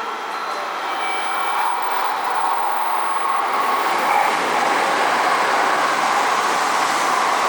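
N700-series Shinkansen train running through the station without stopping: a rushing noise that swells over the first four seconds, then holds steady and loud.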